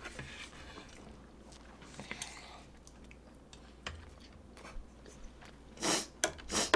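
Close-up chewing of a mouthful of tteokbokki, thin chewy rice cakes in spicy sauce: soft wet mouth sounds and small clicks, with two louder breathy bursts near the end.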